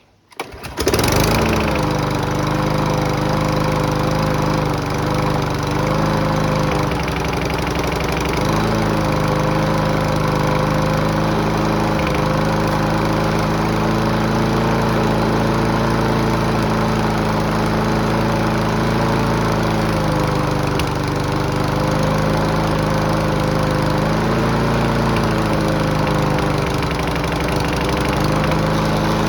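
Petrol lawnmower engine starting about a second in and then running steadily on test after an aftermarket throttle lever was fitted, its pitch dipping and recovering a few times.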